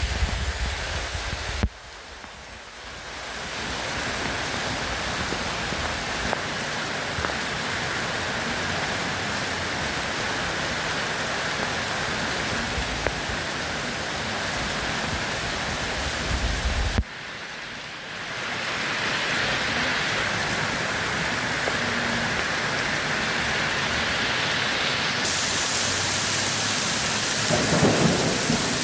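Steady rain in a thunderstorm, with low rumbles of thunder, one of them near the end. The sound drops out abruptly about 2 s in and again about 17 s in, then swells back over a second or two, as at a splice in a looped recording.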